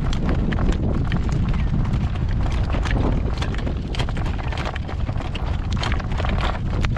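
A harnessed horse's hooves clopping steadily on the road as he pulls a cart, with strong wind buffeting the microphone as a constant low rumble.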